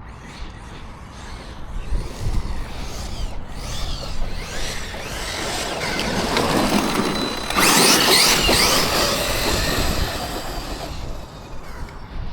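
Electric RC truck driving hard on dirt: its motor whine rises and falls with the throttle over the sound of the tyres on the ground, loudest about two-thirds of the way through.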